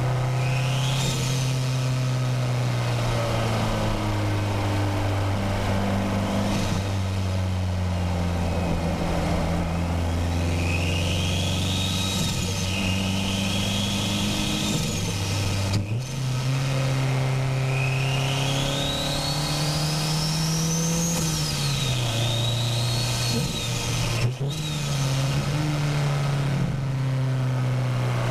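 Turbocharged Nissan SR20DET inline-four accelerating and easing off through corners, its pitch climbing and dropping, with a high turbo whistle that sweeps up under boost and falls away. The sound breaks sharply twice, about halfway and near the end.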